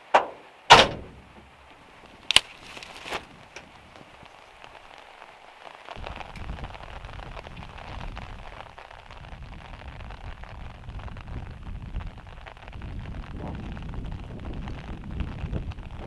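Rain drumming steadily on a van's metal roof, with a few sharp knocks in the first few seconds, the loudest about a second in. A low rumble joins about six seconds in.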